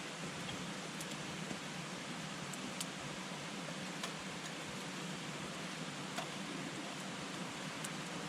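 Wood campfire burning: a steady hiss from the flames with a few sharp crackles and pops scattered through.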